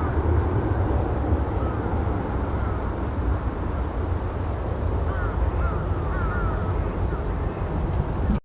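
Low, steady rumble of a Boeing 737-800's CFM56-7B jet engines heard from a distance as the airliner climbs away after takeoff, with a few faint bird chirps about five to six seconds in.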